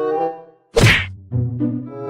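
A sharp whack just under a second in, between held musical notes that step in pitch. The note-and-whack pattern repeats every couple of seconds, like a comedy sound-effect loop laid over music.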